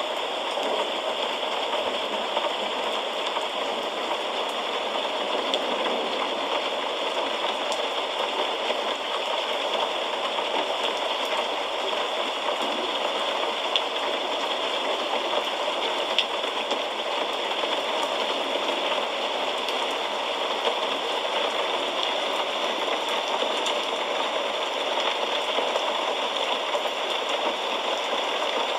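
Steady rain falling, an even hiss with an occasional faint drop tick.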